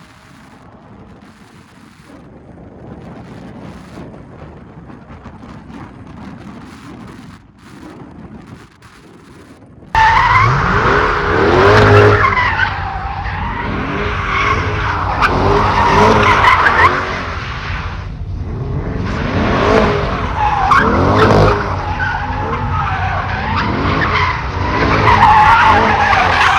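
A car doing donuts: the engine revs up and down over and over while the tyres squeal and skid. It comes in suddenly about a third of the way in, after a quieter stretch of faint background noise, and stays loud.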